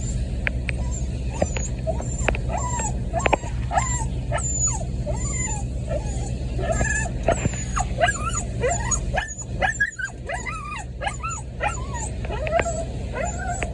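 A puppy crying: a rapid, continuous string of short, high whimpers and yips that rise and fall in pitch, over a steady low hum.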